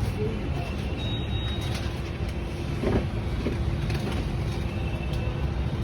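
Steady low rumble of road traffic, with a few faint clicks and knocks.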